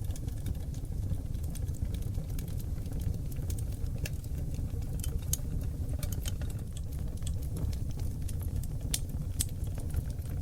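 Wood fire of seasoned oak logs burning in a fireplace: a low, steady rumble of flames with frequent sharp crackles and pops scattered throughout, a few of them louder.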